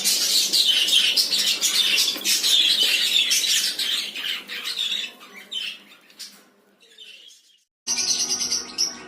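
Caged parrots chattering and squawking in a dense, busy chorus that fades out about six to seven seconds in. A brief, higher-pitched bird sound starts abruptly near the end.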